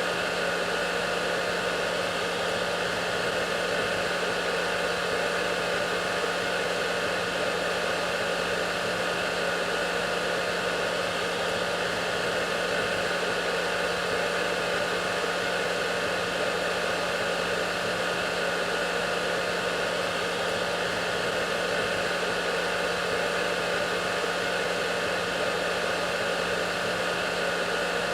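Hair dryer running steadily: an even rushing noise with a constant low hum and a few faint steady whining tones above it.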